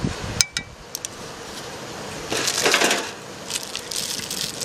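Wood fire crackling, with a few sharp pops in the first second and a short burst of hiss about two and a half seconds in.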